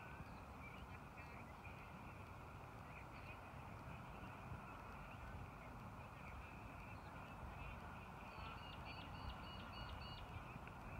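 Quiet outdoor background with a steady low rumble and birds calling, including a quick run of about six high chirps about eight seconds in.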